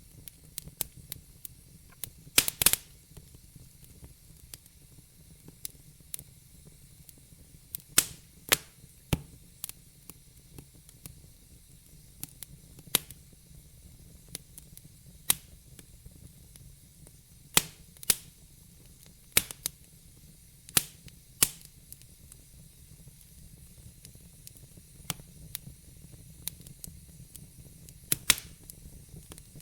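Wood logs burning in a fireplace: sharp crackles and pops at uneven intervals over a soft steady hiss, with the loudest burst of pops about two and a half seconds in.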